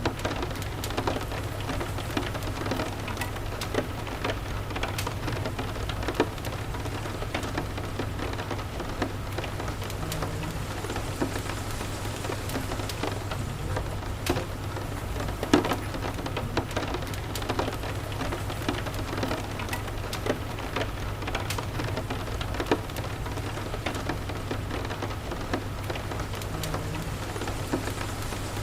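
Steady rain with a low, even rumble, over frequent small, irregular crackles and pops from a wood fire in a fireplace.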